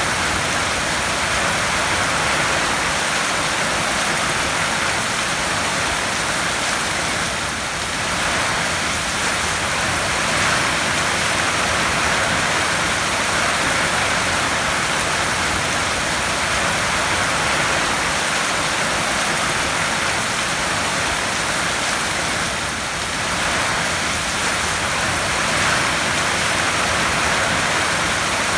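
Heavy rain drumming steadily on a tin roof, an even dense hiss of drops.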